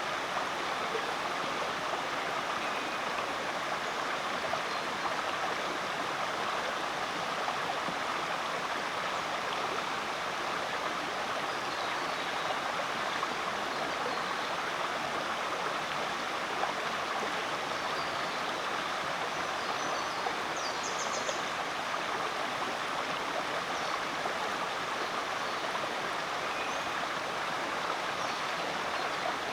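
Rainforest creek flowing steadily over rocks, a constant rushing of water, with a few faint high chirps from birds in the background.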